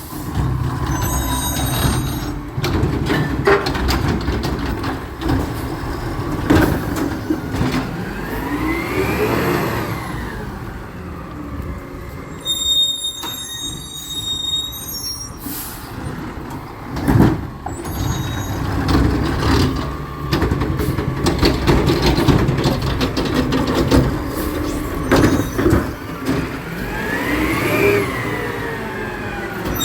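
Recycling truck at work: its diesel engine runs steadily and twice revs up and falls back, with many metal clanks and knocks throughout.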